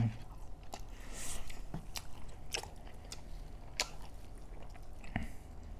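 Close-miked chewing of a pork curry and rice meal, with short wet mouth clicks and smacks about once a second.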